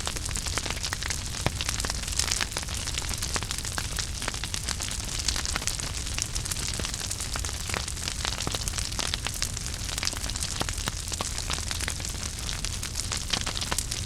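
Wood fire in a fireplace burning steadily: a continuous hiss and low rumble with frequent irregular crackles and pops.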